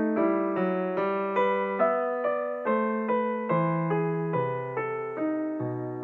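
Background piano music: a gentle melody of single struck notes over held chords, about two to three notes a second, each fading before the next.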